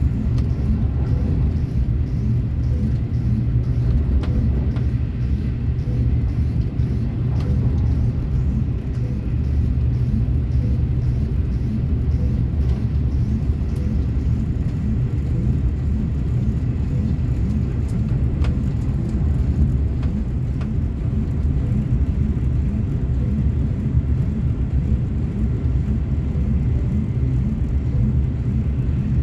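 Train running steadily with a continuous low rumble and a faint, regular ticking over it.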